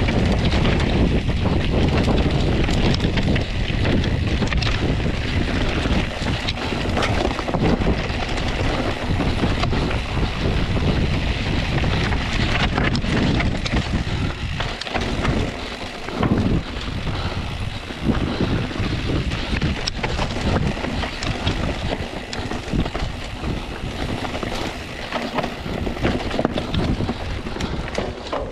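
Wind buffeting the microphone of a camera riding on a mountain bike descending fast singletrack, with the bike's tyres and frame rattling and clattering over rocky ground.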